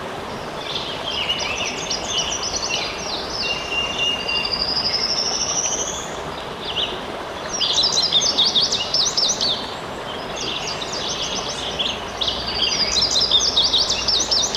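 A songbird singing in bursts of fast, high chattering phrases, with one rising trill about four seconds in, over a steady rush of running water.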